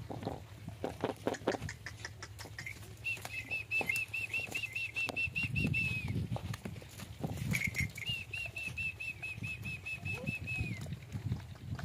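A small bird repeating a quick, even series of high chirps, about four or five a second, in two runs of about three seconds each, over low rustling and thumps.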